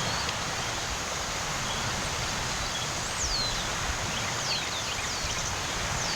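Steady rush of water along a bay shore. A bird calls over it with several short, high chirps that slide downward, starting about three seconds in and repeating toward the end.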